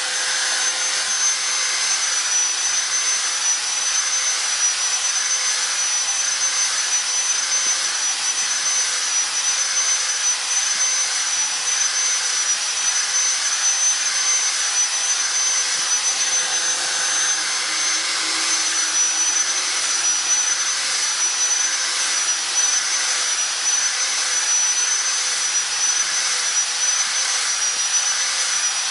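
Hand-held angle grinder running steadily with a high whine, grinding a cage bar round as the bar is turned by hand.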